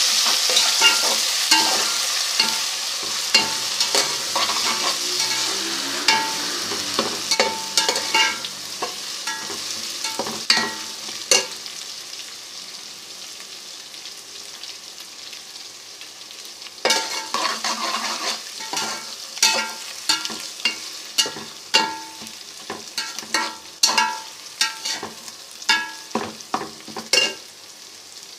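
Onions and ginger-garlic paste frying in hot ghee, sizzling and being stirred, with a spoon clicking and scraping against the pot. The sizzle is loudest at first and dies down; the stirring comes in two spells with a quieter pause in the middle.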